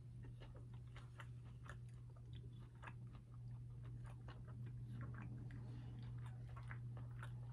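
A person chewing fried chicken up close, with many small irregular crunches and mouth clicks, over a steady low hum.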